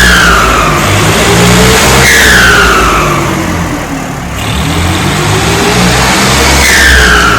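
Turbocharged tractor diesel engine revved up and down repeatedly. After each rev a high turbo whistle falls in pitch.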